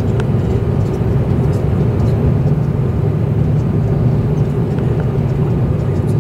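Airbus A330-200 airliner landing: a steady low rumble that holds even throughout, with a few faint clicks.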